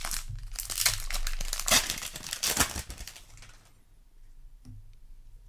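Magic: The Gathering booster pack wrapper crinkling and rustling as it is handled and torn, for about the first three and a half seconds, then a single light click.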